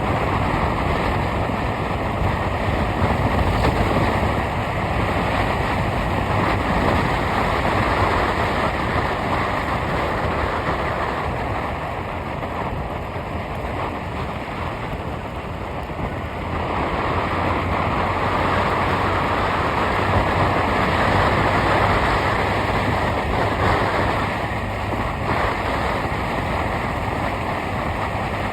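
Steady road and wind noise of a moving vehicle, with no engine note standing out, swelling and easing slightly over the span.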